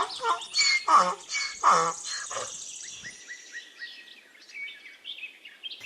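Donkey braying, a rapid run of repeated hee-haw calls that dies away about two and a half seconds in. Birds chirp faintly in the background.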